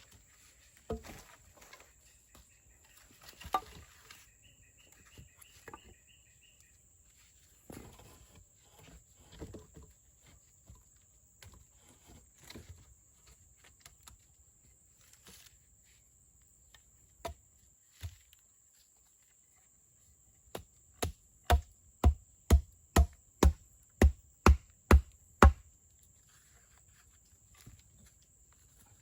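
A blade chopping wood: a quick run of about a dozen strikes, roughly two a second, in the second half, after scattered knocks and rustles of handwork. A steady high insect drone runs underneath.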